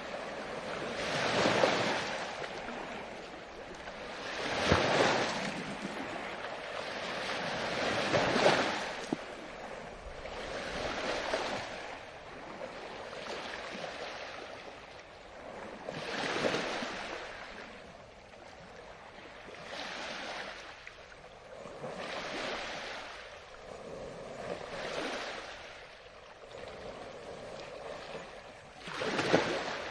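Ocean surf: waves breaking and washing in one after another, a swell of rushing water every three to four seconds. The breakers are stronger in the first half, softer after the middle, and one last louder wave comes near the end.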